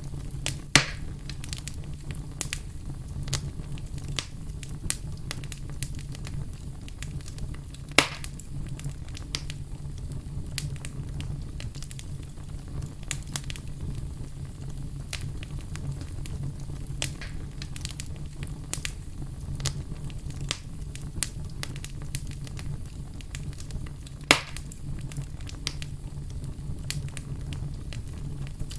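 Wood fire burning with a steady low rumble and many scattered crackles, with three louder sharp pops: about a second in, about eight seconds in, and near the end.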